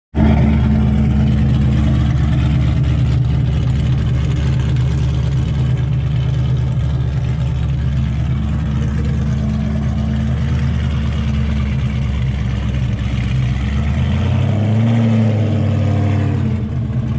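2019 Camaro SS's 6.2-litre LT1 V8, fitted with a Pray Performance stage 3 cam and a Holley Hi-Ram intake, running steadily at low revs as the car rolls slowly away, with a brief rise and fall in revs near the end.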